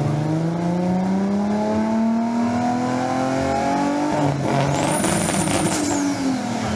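Car engine accelerating, its pitch climbing steadily for about four seconds, then dropping. A thin high whine then rises, holds and fades away near the end.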